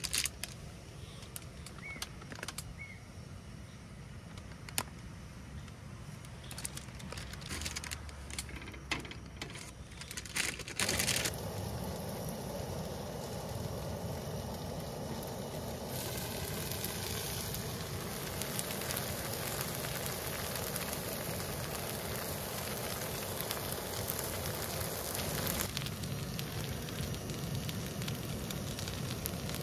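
Scattered clicks and knocks at first, then from about eleven seconds in a steady sizzling of frozen yakisoba and okonomiyaki frying on a hot griddle pan.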